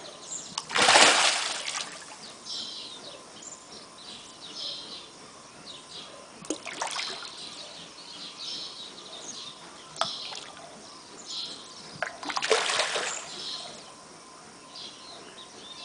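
Matrinxã fish splashing at the water surface as they compete for the fly: a loud splash about a second in, a smaller one near the middle and another loud splash about twelve seconds in. Small birds chirp throughout.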